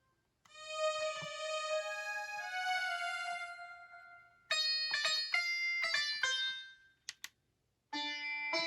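Notes played on the Akai MPK Mini Play MK3 keyboard's built-in sounds. First several held keyboard notes ring out and fade, then comes a run of short plucked, sitar-like notes. After two brief clicks and a short gap, more plucked notes begin near the end.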